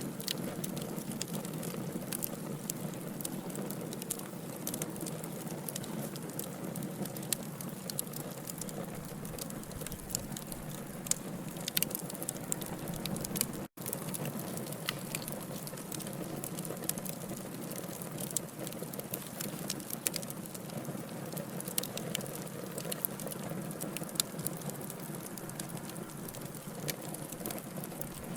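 Wood logs burning in a fireplace: a steady hiss with frequent sharp crackles and pops. The sound drops out for an instant about halfway through.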